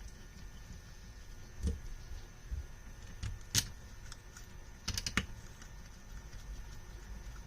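Scattered small metal clicks and taps from handling bolts and parts on a Mikuni carburetor rack: a few single clicks, the sharpest about halfway through, then a quick run of three or four clicks about two-thirds in.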